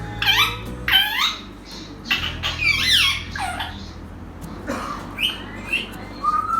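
African grey parrot giving a quick series of short, squeaky whistled chirps, each sweeping sharply in pitch, mimicking other birds. The calls come thick for the first few seconds, then a few fainter ones follow.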